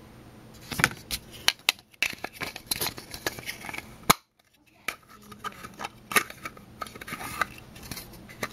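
Hard plastic toy parts of a B-Daman marble shooter clicking and rattling as they are handled and snapped together during assembly, with a sharp click about four seconds in followed by a brief gap.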